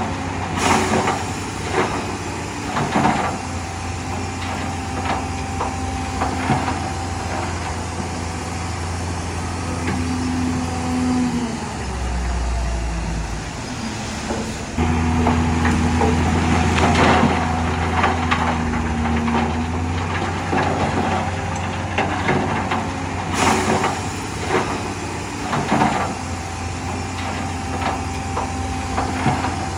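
Heavy diesel earthmoving machinery running steadily, with repeated metallic clanks and knocks. The engine note drops briefly about halfway through, then comes back louder.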